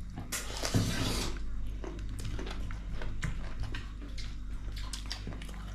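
Close-up eating sounds: wet chewing and small mouth clicks from someone eating goat curry and rice, with a short hissing, slurp-like noise about half a second in. A steady low hum runs underneath.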